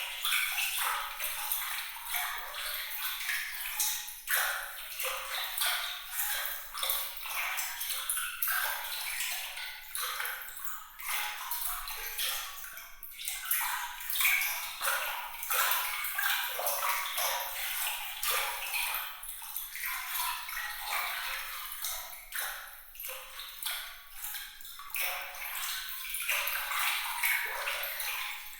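Water sound effect: a continuous stream of small bright splashes, drips and pings, all high and light with no low rumble.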